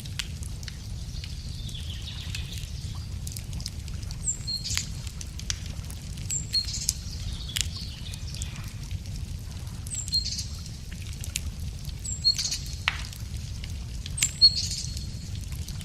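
Wood fire crackling with scattered sharp pops over a steady low rumble, while a songbird repeats a short high call five times, about every two seconds.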